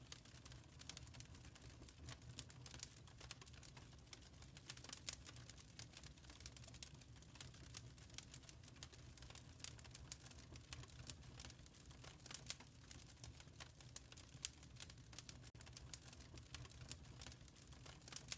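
Wood fire crackling in a fireplace: faint, irregular small pops and snaps over a low, steady rumble.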